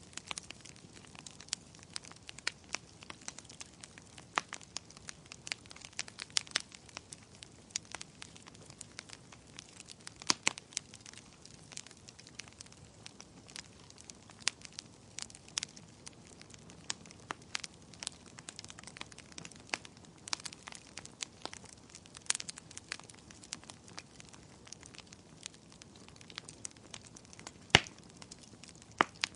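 Wood fire in a fireplace crackling: a soft steady hiss with irregular sharp snaps and pops, a couple of louder pops about ten seconds in and near the end.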